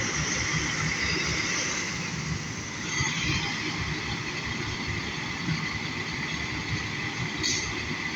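Fire apparatus on the move: steady engine and road noise, with a low rumble and a thin, steady high whine.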